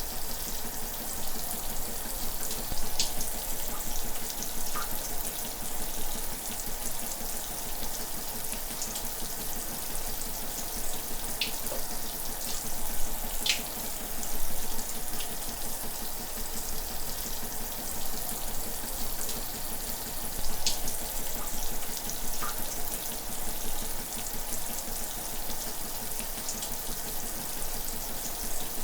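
Shower running steadily: an even spray of water hissing, with a few brief sharper splashes now and then.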